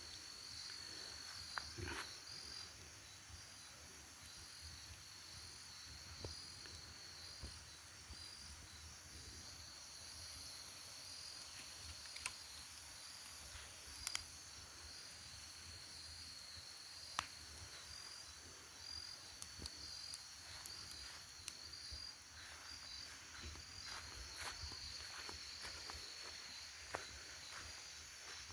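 Crickets chirping in a high, evenly repeating pulse, with a few faint scattered clicks.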